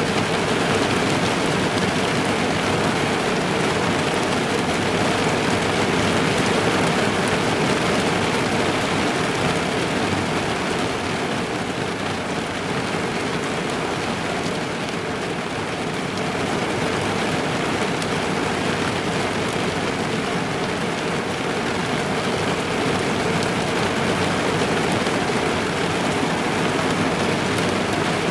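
Steady, dense rain drumming on a car's roof and windows, heard from inside the car, easing a little about halfway through and then building again.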